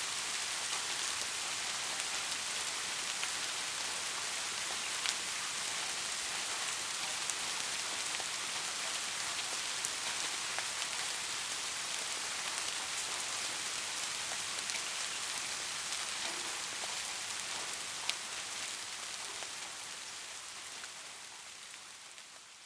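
Steady rain falling on a surface, a dense hiss of fine drop ticks with the odd louder single drop. It fades out over the last few seconds.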